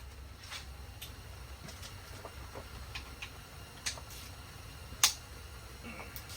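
Scattered metallic clicks and taps of hand tools and engine parts being handled during disassembly, the sharpest about five seconds in, over a low steady hum.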